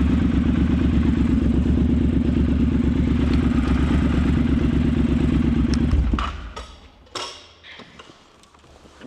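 Triumph Scrambler 1200's parallel-twin engine running steadily with an even low pulse, then shut off about six seconds in, leaving a few clicks and knocks.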